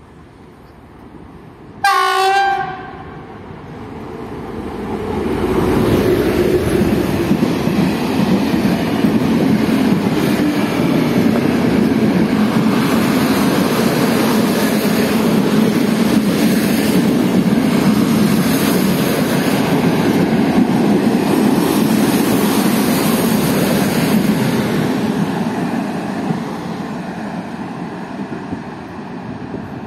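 Freight train passing at speed behind a 3E/1M electric locomotive, which gives one short horn blast about two seconds in. The long rake of Talbot hopper wagons then rumbles and clatters past, building up, holding steady and fading near the end.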